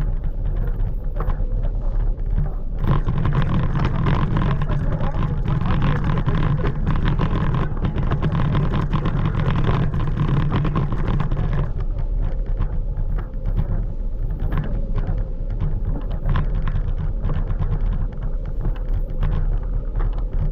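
Steady rumble of a scooter rolling along a street, with wind buffeting the microphone and a faint steady whine. It grows louder a few seconds in and eases again a little past the middle.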